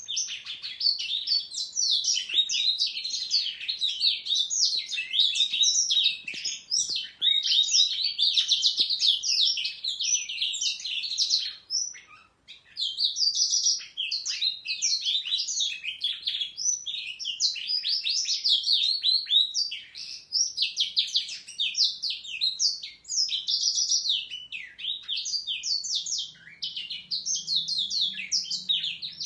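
A young domestic canary and a young black-throated canary singing in a duet: a long, dense stream of fast high trills and chirps, broken by one short pause about twelve seconds in.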